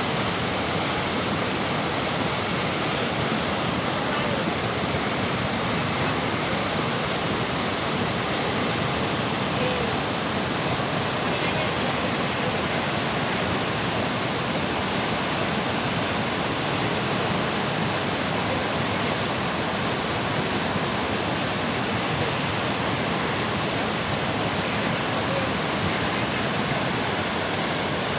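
Swollen river in flood: fast water rushing steadily, a constant even wash of sound with no let-up.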